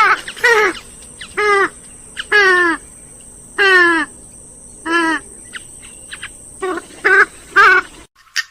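Grey-headed swamphen giving a loud series of short calls, each sliding down in pitch, about nine in eight seconds; the calling cuts off suddenly near the end, followed by a faint click.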